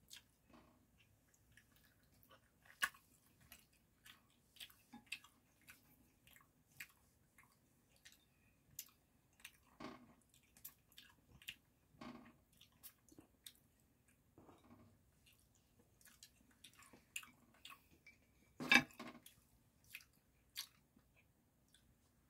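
Quiet chewing of smoked salmon slices, with scattered clicks and scrapes of wooden chopsticks on a ceramic plate. The loudest sound is a brief knock a few seconds before the end.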